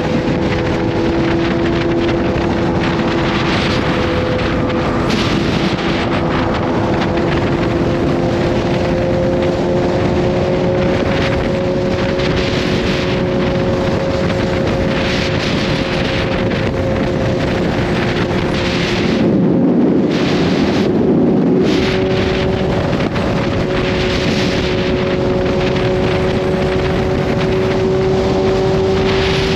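Kawasaki Z H2's supercharged inline-four engine running at a steady cruise, its pitch creeping slowly up, with wind noise on the microphone. A brief louder rush of noise comes about two-thirds of the way through.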